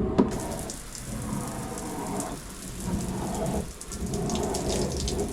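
Wood-fired shower spraying water, turned on about a quarter second in: a steady hiss of falling water with a low rumble beneath, the water still running cold.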